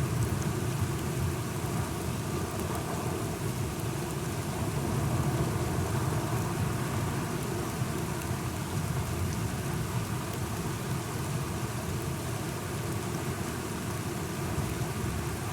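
Steady rain falling, with a low rumble of thunder underneath that swells slightly about five seconds in.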